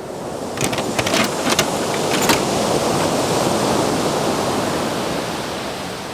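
Ocean surf: a rushing wash of water that swells and then slowly fades, with a few sharp clicks in the first couple of seconds.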